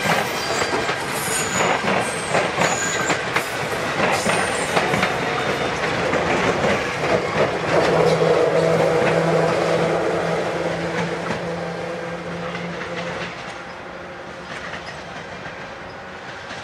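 Metrorail electric multiple-unit commuter train running past, its wheels clicking over rail joints. A steady hum joins in about halfway through, and the sound fades as the train moves away.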